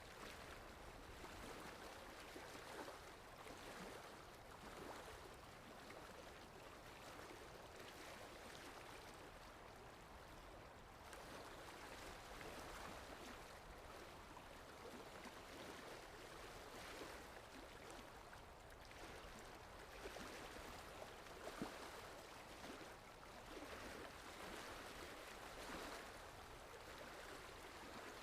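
Faint sea water washing and lapping, a steady hiss that swells and ebbs every couple of seconds.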